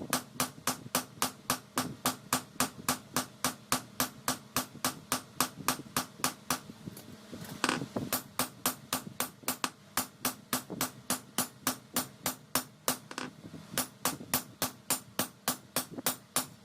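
Hammer blows on hot leaf-spring steel on an anvil, struck in a fast even rhythm of about four a second, with two brief pauses.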